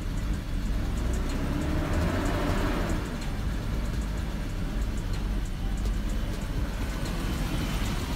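Car engine running with a steady low rumble, with a brief rise and fall in pitch about two to three seconds in.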